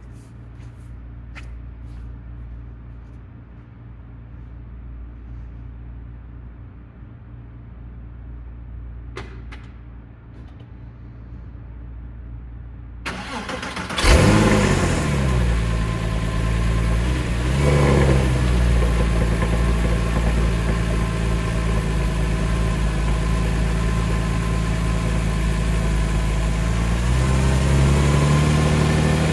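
For the first half only a low background hum with a few faint clicks. About halfway through, the starter cranks briefly and the 2003 Porsche 911's flat-six catches with a loud flare, then settles into a fast cold-start idle. There is a short blip of revs soon after, and the revs climb again near the end.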